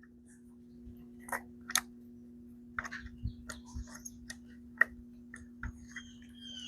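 Irregular light clicks and taps of hands and small parts being worked on a Poulan chainsaw's carburetor and fuel-line area, about a dozen scattered ticks over a faint steady hum.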